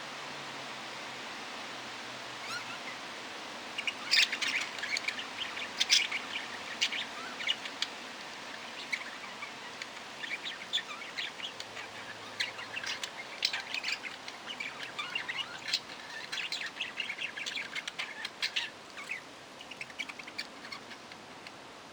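Small parrots chirping and chattering over a steady hiss. A busy run of short, sharp calls starts about four seconds in, keeps up through the middle, and thins out near the end.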